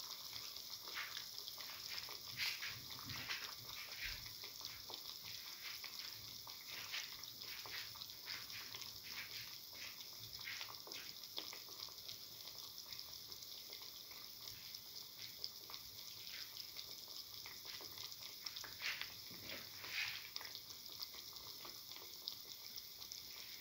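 Banana-egg batter fritter frying in shallow hot oil in a pan: a quiet, steady sizzle with frequent small crackles and pops.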